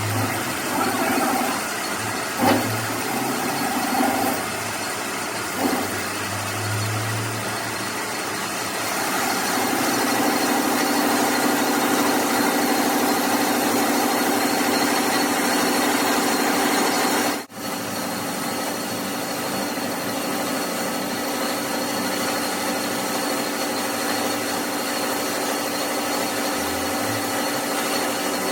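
A machine running with a steady mechanical hum, with a few short knocks in the first few seconds. The hum grows steadier and louder about a third of the way in and briefly cuts out just past the middle.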